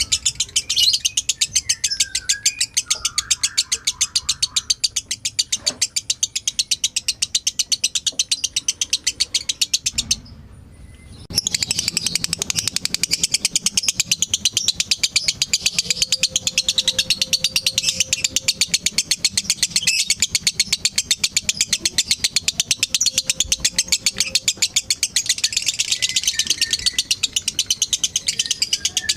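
Lovebird chattering in a long, rapid, high-pitched trill (the 'ngekek' used for song training), breaking off briefly about ten seconds in.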